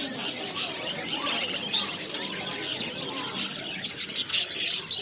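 Many caged birds chirping at once: short, high calls overlapping throughout, with a louder cluster about four seconds in.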